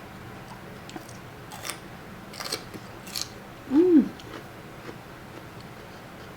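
Close-up crunchy bites and chewing, a few crisp crunches spread over the first three seconds. About four seconds in comes a short hummed 'mm' that rises and falls in pitch.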